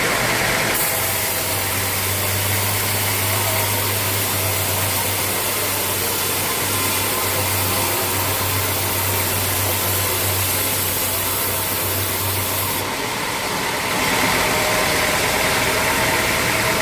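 Sawmill machinery running steadily under an engine's drone, with a deep steady hum that stops about thirteen seconds in as the sound changes.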